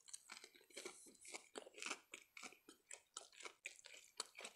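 Close-miked chewing of a breaded chicken nugget dipped in tomato sauce: quiet, irregular wet smacks and soft crunches, several a second.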